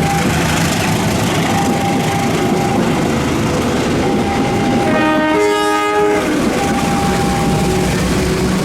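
Diesel-hauled passenger train running past with a steady rumble and wheel clatter on the rails. Its horn sounds once, a chord of about a second, some five seconds in.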